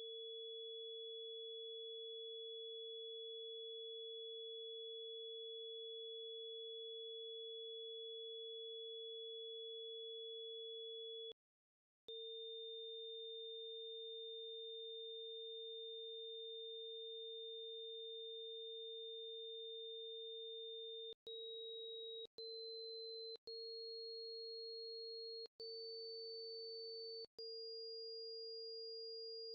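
Two pure sine tones sounding together: a steady low tone at the 460.8 Hz Bb root of the Harmonics of Nature tuning scale, and a thin high tone several octaves above it. Both stop briefly about eleven seconds in. From about two-thirds of the way through, the high tone steps up in pitch five times, with a short break at each step.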